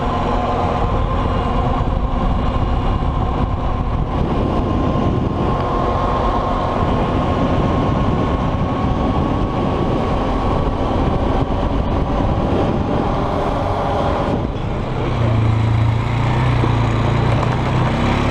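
2002 Polaris Sportsman 500 H.O. ATV's single-cylinder four-stroke engine running under way while being ridden, the engine note changing about three-quarters of the way through.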